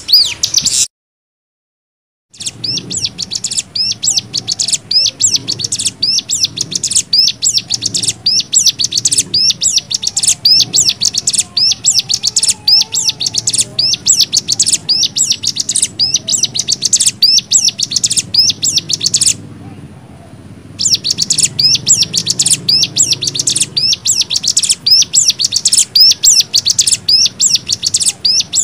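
Cigun (ciblek gunung) singing its rapid 'nembak' song: fast runs of sharp, high chirps repeated several times a second. The song is broken by a silent gap about a second in and a brief pause at about twenty seconds.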